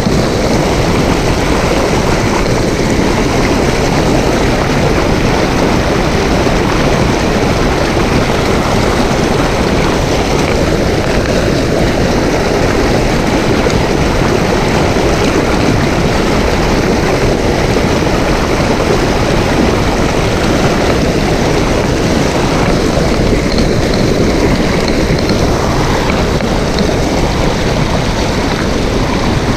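Mountain stream water rushing over rocks, a loud, steady rush that does not let up.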